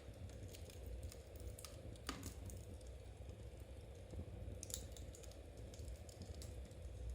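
Knitting needles clicking and tapping against each other in an irregular patter, faint, over a low steady hum.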